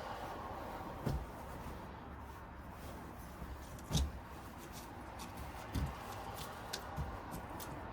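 Sofa parts being handled during assembly: a few dull thumps and knocks, the loudest about four seconds in, with some faint ticks over a steady room hum.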